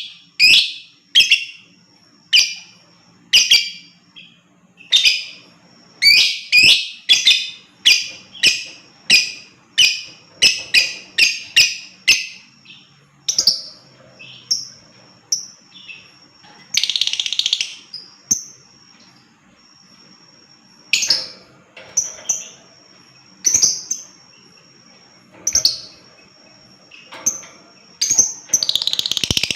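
Lovebird calling with sharp, high shrill chirps, fast at about two a second at first and sparser later, with two longer harsh screeches, one about halfway through and one near the end.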